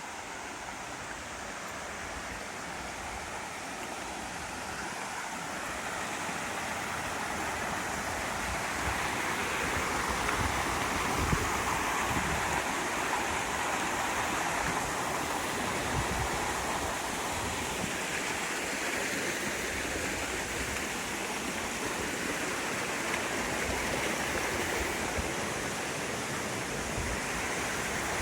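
Rushing water, a steady hiss that grows louder over the first ten seconds or so and then holds.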